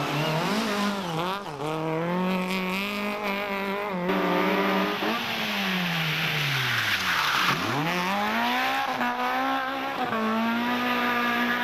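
Rally car engine driven hard, its revs climbing and dropping with gear changes. About five seconds in the pitch sinks steadily for two seconds under a hiss of tyre noise, then climbs again.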